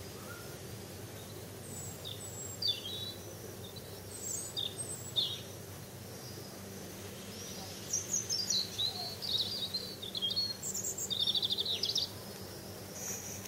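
Songbirds chirping in the trees: short, scattered calls, busier in the second half, with a rapid trill near the end, over a steady low background noise.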